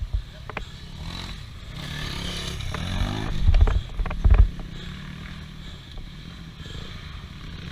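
Off-road vehicle engine revving up as it pushes at a difficult climb, with a few heavy low thumps near the middle as it strikes the ground.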